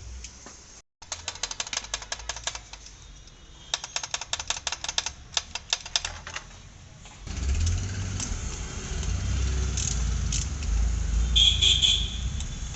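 Ratchet wrench clicking in quick runs, three bursts of even ticks, as engine bolts are worked loose; about seven seconds in it gives way to a louder low rumble with a few sharp clicks.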